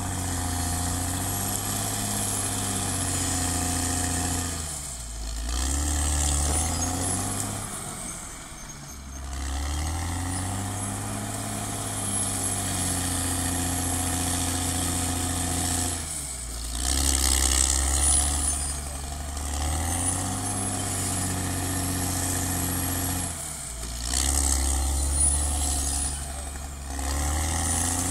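Caterpillar D6R XL bulldozer's diesel engine working under load. Its pitch sags and recovers every few seconds, with a high whine that climbs back each time.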